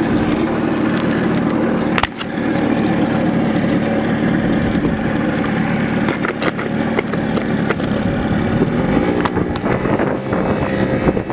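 Minibike's small engine running steadily under way, with sharp rattling knocks from the ride, the loudest about two seconds in, and a brief change in engine pitch near the end.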